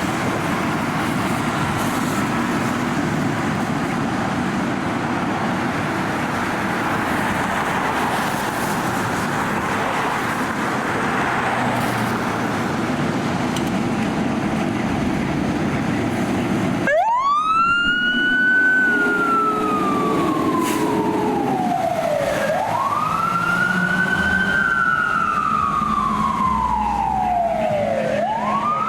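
Fire engine siren starting up about two-thirds of the way through: a quick rise in pitch, then a slow fall and a rise again, twice, in a slow wail. It sounds over the truck's engine and steady road noise, which is all there is before it.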